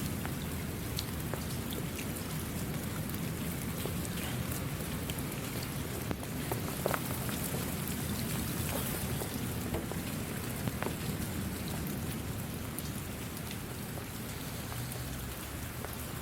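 Steady rain falling, with many separate drops ticking sharply over an even wash of noise and a low rumble underneath.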